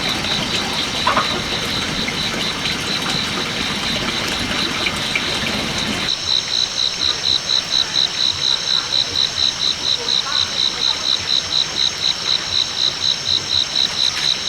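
Insects chirping: a high-pitched call pulsing steadily at about three to four pulses a second. For the first six seconds it sits under a louder noise that stops abruptly, after which the chirping stands out clearly.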